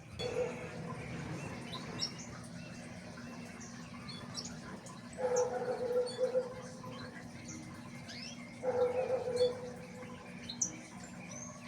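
Small birds chirping with short high calls throughout. A lower, drawn-out animal call comes three times: near the start, about five seconds in, and about nine seconds in.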